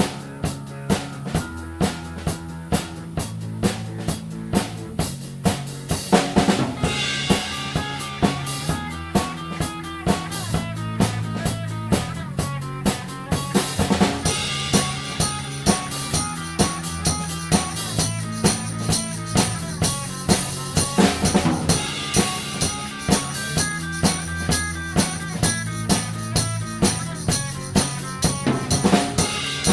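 Instrumental passage of a band's song: a drum kit keeps a steady beat of about two hits a second over a bass line and pitched melody notes. Bright cymbal crashes come about six and again about fourteen seconds in.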